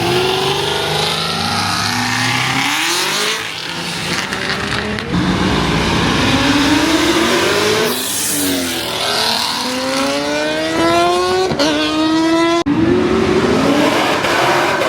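ProCharger-supercharged car engine accelerating hard, its note climbing in pitch and dropping back at each gear change, with a sharp break about twelve seconds in.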